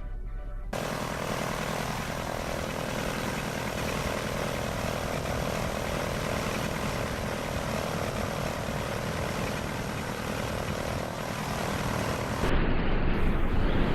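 Aircraft engine drone over a steady rushing noise, with a faint steady hum, after music stops about a second in. Near the end it cuts to a louder, rougher rushing sound.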